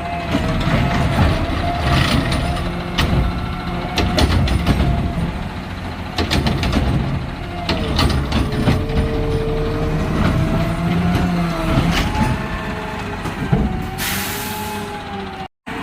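Garbage truck working: diesel engine running with a wavering hydraulic whine and scattered metal clanks and knocks. Near the end comes a sharp hiss of air lasting about a second, like an air-brake release.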